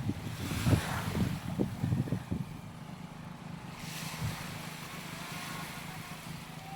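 Beach ambience: wind buffeting the microphone in gusts during the first couple of seconds, waves washing in, and a steady low engine hum underneath.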